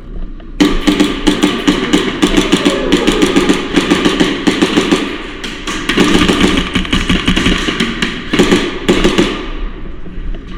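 Airsoft guns firing in rapid bursts: a dense, irregular clatter of shots and BB impacts that starts abruptly under a second in and thins out near the end.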